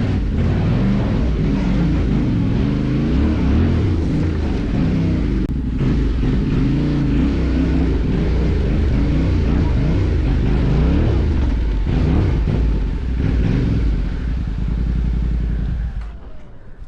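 Motorcycle engine running under load on an off-road ride, its pitch rising and falling with the throttle, then dropping away sharply near the end.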